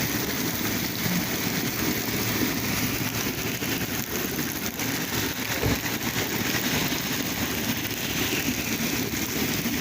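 Heavy rain pouring steadily, with one brief low thump about six seconds in.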